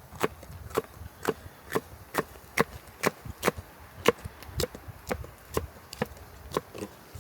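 Steady chopping, a blade striking wood about twice a second.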